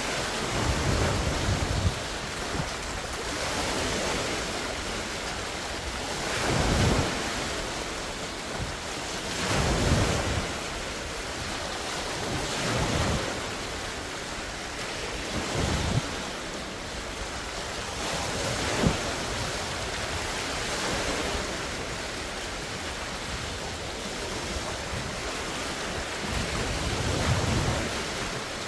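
Large wind-driven lake waves breaking and washing against the shore, swelling every few seconds, with steady wind buffeting the microphone.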